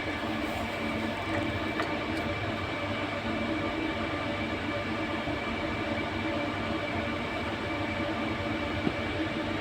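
Steady machine noise from running air-conditioning equipment: an even hum with several constant tones, unchanging throughout.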